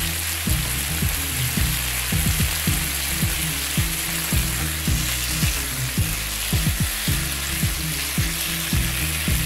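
Chopped San Marzano tomatoes sizzling steadily in hot olive oil in a nonstick pan, their juices hissing on the hot surface. A wooden spatula stirs them near the end.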